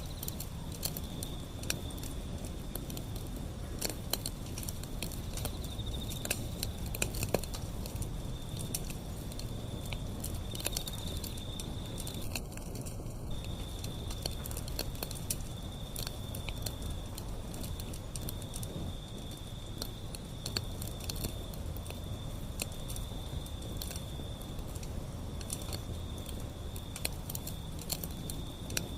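Wood fire burning, with frequent sharp crackles and pops over a low steady rumble. A thin steady high tone runs underneath.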